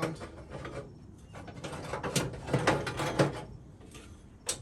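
Metal clinks and scrapes of a battery ground cable clamp being fitted onto the battery post, with a cluster of sharp knocks about two to three seconds in and one sharp click near the end.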